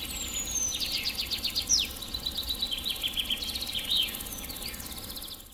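Songbirds singing: a whistle gliding down, then rapid trills and sharp down-slurred chirps, over a steady high insect-like hiss.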